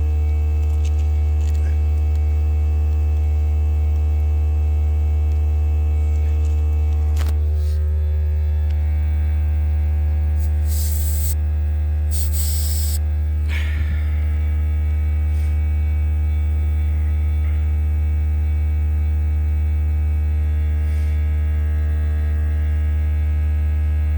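Electric air compressor running with a steady, loud hum. Twice, about halfway through, a short hiss of air escapes as a tire gauge is pressed onto the valve stem, followed by a light knock.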